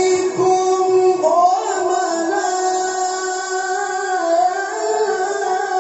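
A solo voice chanting long, held melodic notes that slide slowly between pitches, in the style of melodic Quran recitation.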